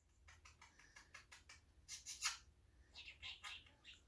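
English budgie chattering: a quick run of short clicks and chirps, loudest about two seconds in and again near three seconds.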